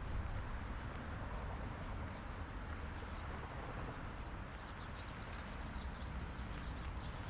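City street ambience: a steady low rumble of traffic, with faint light ticks scattered through it.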